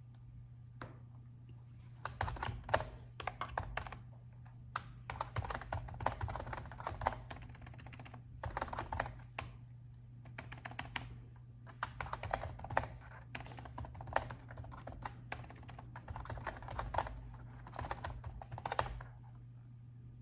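Typing on a laptop keyboard in quick bursts of keystrokes with short pauses between them, starting about two seconds in and stopping shortly before the end, over a steady low hum.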